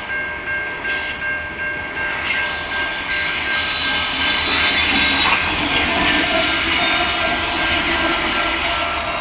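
Freight train rolling past, its wheels clacking over the rail joints in a steady beat under a continuous high wheel squeal. The sound grows louder about halfway through.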